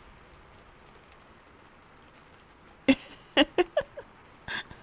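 A run of about six quick close-up kisses into the microphone, starting about three seconds in, over a faint steady hiss of rain.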